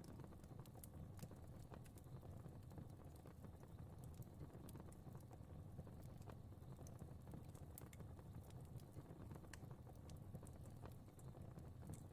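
Faint crackling fire: a soft low rumble of flames with scattered small pops and snaps.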